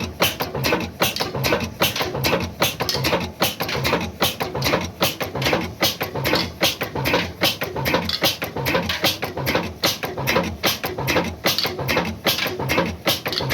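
35 HP Ruston Hornsby oil engine running steadily under load on a tubewell pump, its firing beats coming as an even, fast rhythm of sharp knocks.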